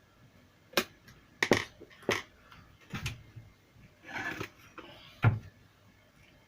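Sharp clicks and knocks of plastic parts and a screwdriver as the drivers of a JBL Charge portable speaker are unscrewed and its housing handled, about five hits with a short scraping rustle just before the loudest one.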